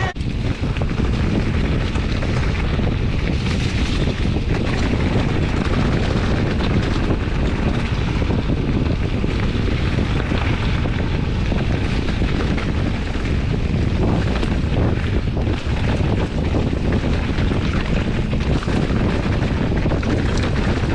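Steady wind buffeting the microphone as a mountain bike is ridden along the trail, a loud low rumble with the bike's rattle mixed in.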